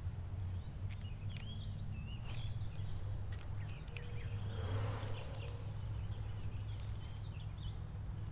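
Birds chirping in short calls over a steady low rumble of wind on the microphone, with a couple of sharp clicks.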